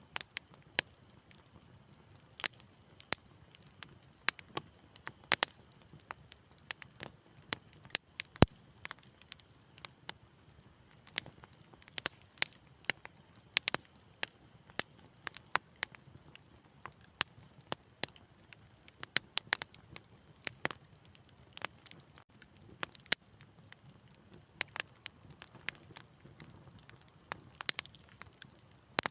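Wood fire crackling, with sharp irregular pops and snaps over a faint low hiss.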